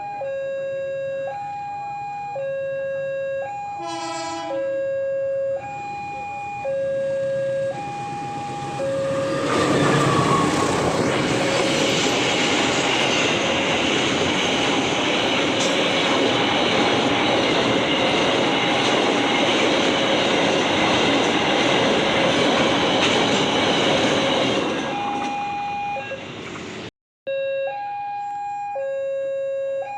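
Railway level-crossing warning alarm alternating steadily between a low and a high tone, about one change a second. A short blast sounds about four seconds in. About nine seconds in, a passing train's loud rushing rolling noise swamps the alarm for some fifteen seconds, after which the two-tone alarm is heard again.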